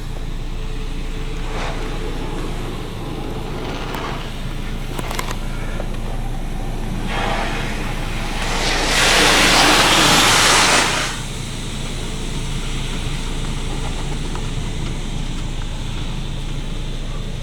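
Pre-soak spray from a touchless automatic car wash hissing against a pickup, heard from inside the cab over a steady low hum. The spray swells several times and is loudest for about two seconds in the middle, as the jets pass over the cab.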